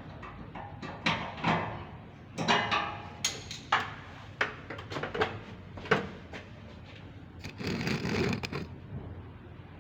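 Irregular knocks and clatter of objects being handled, with a longer scraping, rustling stretch about eight seconds in.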